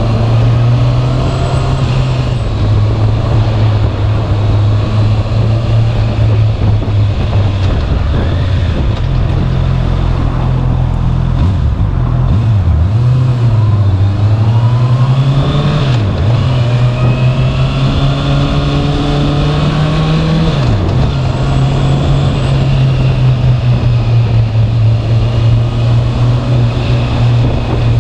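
Honda CB650R's inline-four engine running through its standard exhaust while riding. The pitch holds steady, then falls and climbs again several times in the middle as the revs drop and build.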